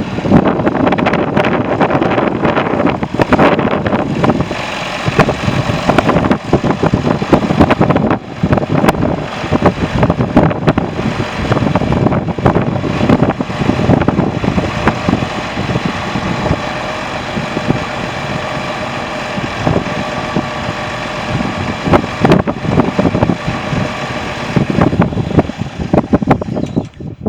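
John Deere 4630 tractor's six-cylinder turbo diesel engine running steadily, with wind buffeting the microphone.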